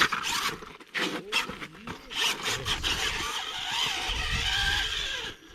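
RC rock crawler driving over rock: its tires and chassis scrape and click against the stone, then its small electric motor whines steadily with a wavering pitch. Wind rumbles on the microphone near the end.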